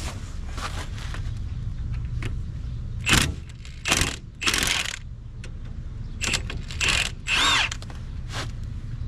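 Metal tools clattering and scraping in several short bursts, one scrape with a wavering pitch near the end, over a steady low hum.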